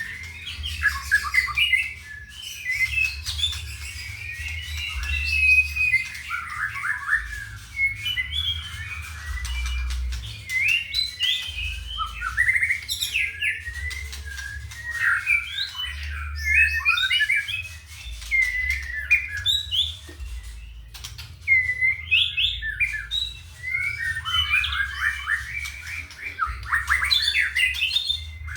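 White-rumped shama (murai batu) singing a fast, varied song of quick whistled notes, trills and harsher chattering phrases, broken by short pauses, over a low rumble.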